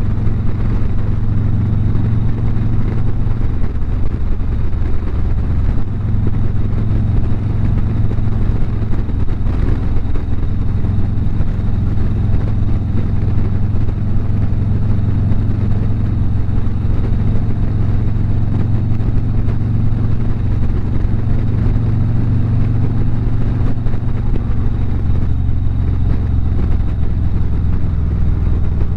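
Harley-Davidson V-twin motorcycle engine running at a steady cruise, heard from the rider's seat with a steady rush of wind noise.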